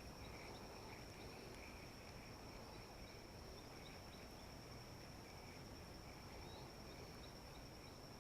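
Faint outdoor ambience dominated by a steady high-pitched insect trill, typical of crickets, with a fainter pulsing insect buzz beneath it.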